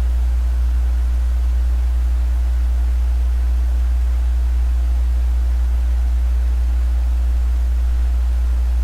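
Steady low electrical hum with an even hiss and a few faint steady tones above it, unchanging throughout, with no other event.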